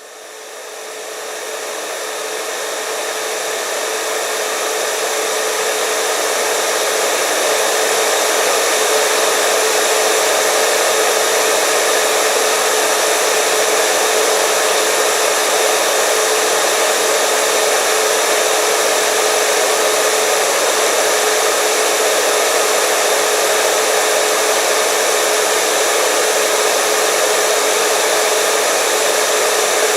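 Hair dryer running continuously: a rushing blow of air with a steady motor whine. It swells over the first several seconds and then holds level.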